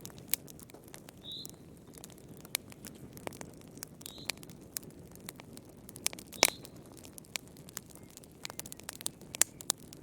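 Wood fire crackling in a fireplace: irregular sharp pops and snaps over a low, steady rustle of burning, the loudest pop about six and a half seconds in. Three brief high squeaks come from the burning wood.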